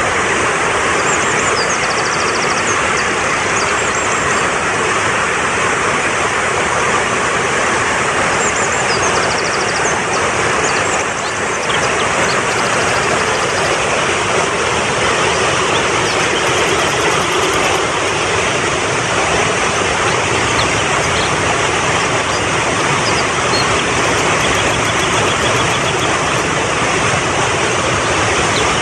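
Fast-flowing mountain stream rushing steadily, with faint bird chirps and quick high trills now and then.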